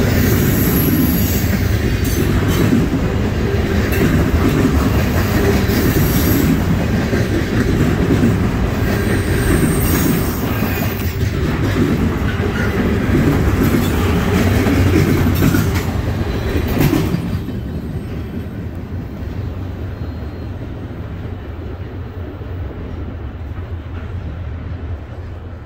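Loaded container cars of a freight trash train rolling past close by: a loud rumble and clatter of wheels over the rails, with brief high wheel squeals. About 17 seconds in, the last car goes by and the sound drops to a fainter rumble as the train rolls away.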